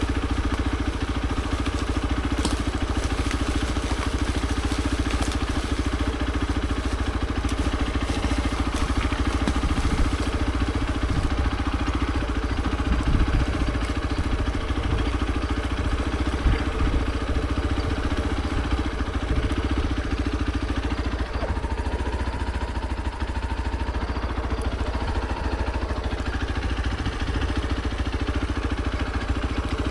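Hero XPulse 200 4V's single-cylinder four-stroke engine running steadily, with no big revs up or down. A couple of brief knocks sound about thirteen and sixteen seconds in.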